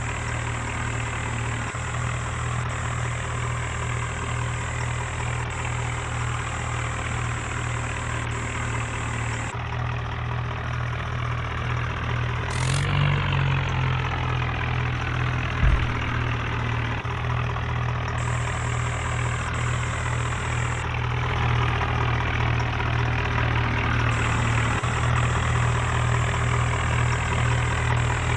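Tractor diesel engines running steadily with a deep hum. A brief sharp high sound comes about halfway through, and a short low thump follows a few seconds later.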